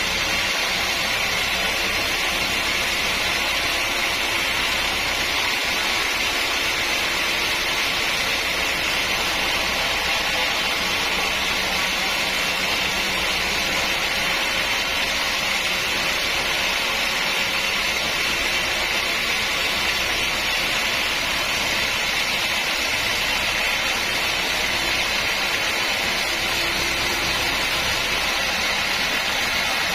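Sawmill machinery running with a steady, unchanging noise, strongest in the upper-middle range.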